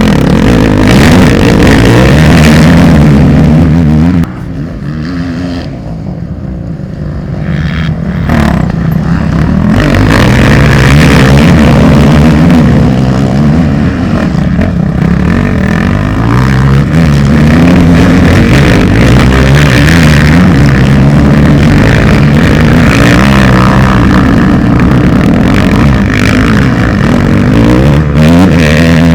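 Motocross motorcycle engines revving hard and rising and falling in pitch as the bikes accelerate and shift. The sound is loud, eases off about four seconds in, then builds back up again around ten seconds in.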